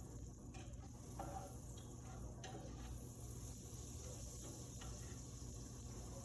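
Quiet room hum with a few faint, scattered ticks and clicks.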